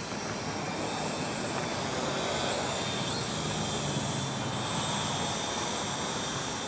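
Small quadcopter drone's propellers buzzing steadily in flight, with a faint high whine over a rushing noise.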